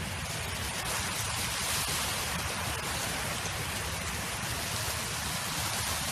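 Wind blowing, a steady rushing noise with a low rumble beneath it that swells slightly about two seconds in.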